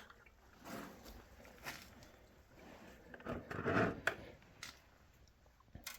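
Workshop handling noises: a few scrapes and rustles, the loudest about three and a half seconds in, and several sharp clicks of tools or parts being moved.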